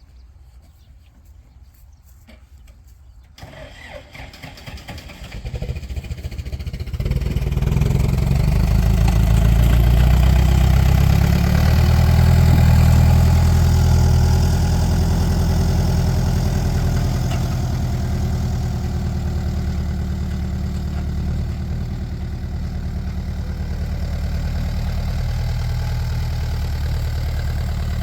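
An engine starts a few seconds in, builds up over several seconds and then runs steadily with a deep, low hum, loudest a little before the middle.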